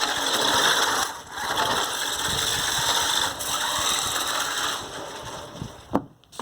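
RC car's small electric motor and gears whirring with a steady whine as it drives, cutting out briefly twice as the throttle is let off, then fading. A sharp knock near the end.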